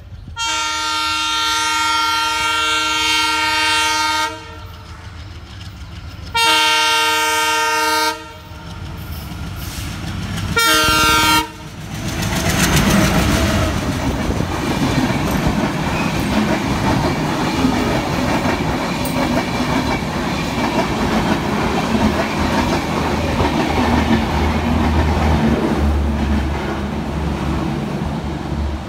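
Diesel locomotive's air horn sounding three times, a long blast, a shorter one, then a brief one, followed by the express train's LHB passenger coaches running past, a steady loud rumble with the clickety-clack of wheels over the rail joints.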